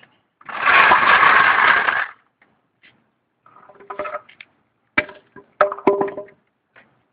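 A loud rushing burst lasting about a second and a half, then a handful of sharp metallic clinks and knocks with short rings: tools and metal parts being handled during work on a truck's suspension.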